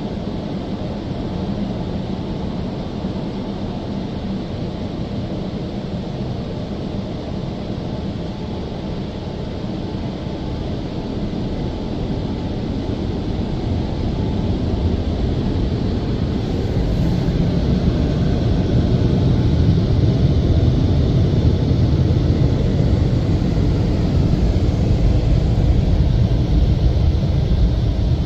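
WashTec SoftCare 2 Pro car wash dryers, the roof blower and side blowers, blasting air over the car in a steady rush. It grows louder from about halfway through and then holds.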